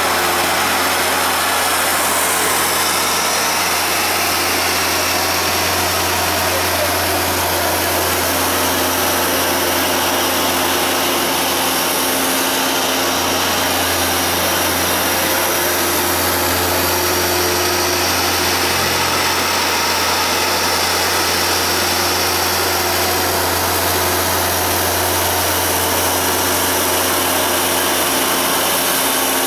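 Hoover Dual Power Max carpet washer running steadily, its motor giving a loud, even whir over a constant low hum.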